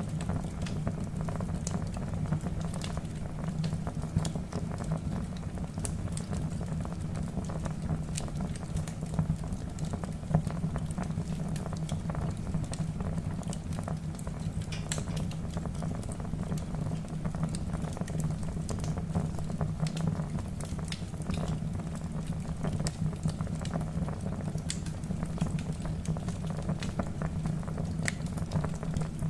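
Wood fire burning in a fireplace: a steady low rush of flame with frequent irregular crackles and pops from the logs.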